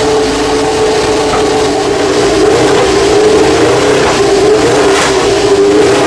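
Historic racing car engine running at high revs, a loud steady high-pitched note that wavers slightly up and down.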